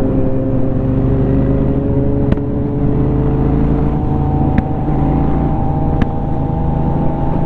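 A 2004 Honda Shadow 750's V-twin engine running under way, its pitch rising slowly as the bike gently gains speed, with wind rumble. Three sharp ticks, a couple of seconds apart, come from a helmet hook tapping in the wind.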